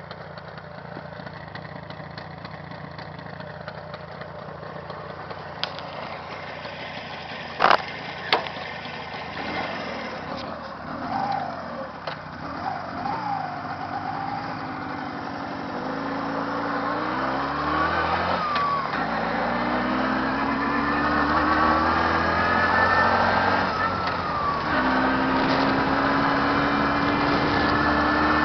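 A newly rebuilt car engine idling quietly, two sharp clicks about eight seconds in, then the car pulling away, the engine note rising through the gears with two drops in pitch at the gear changes and growing louder as it speeds up.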